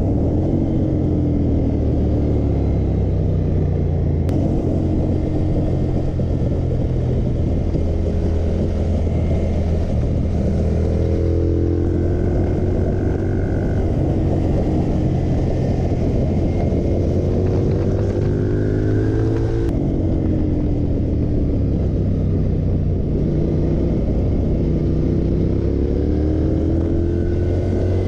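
Ducati Monster 796's engine heard on board at speed, under heavy wind rush, its pitch climbing and falling several times as the rider accelerates and shifts.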